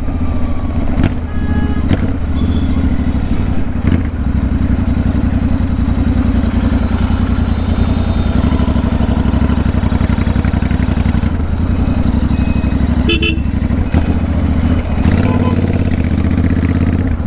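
Royal Enfield Continental GT 650 parallel-twin engine running with its exhaust pipes removed while being ridden: a loud, raw, steady open-pipe note with a few sharp pops in the first few seconds.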